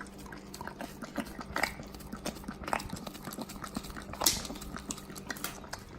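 A dog licking and lapping whipped cream from a small cup: a run of irregular short smacking clicks.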